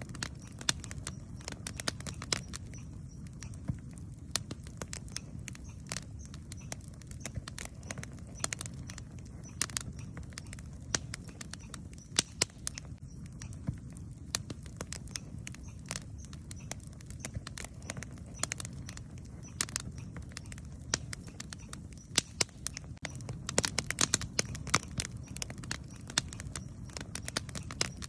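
Wood campfire crackling, with frequent irregular sharp pops and snaps over a steady low rumble of the burning fire.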